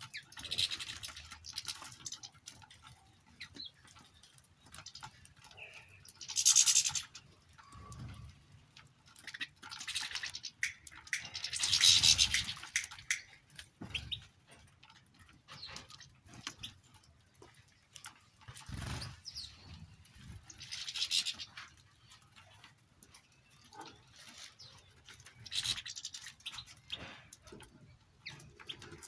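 Small songbirds chirping and twittering in several short spells, with scattered small clicks and scratchy rustling in between.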